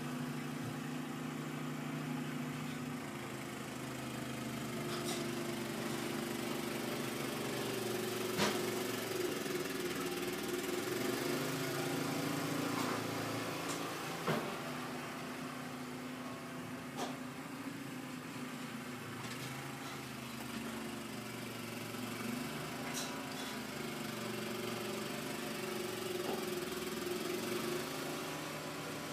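An engine running steadily, its pitch shifting slightly now and then, with a few sharp knocks.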